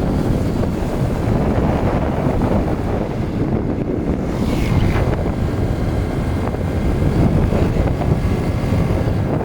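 Wind buffeting the microphone during the ride: a loud, steady rumbling rush.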